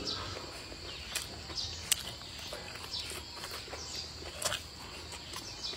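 Close-up chewing of a mouthful of rice and peppers: irregular mouth clicks and smacks, a few a second.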